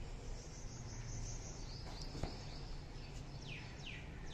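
Quiet garden ambience: birds chirping, with three quick falling calls a little past three seconds in, over a faint steady high-pitched background. A single light click sounds about two seconds in.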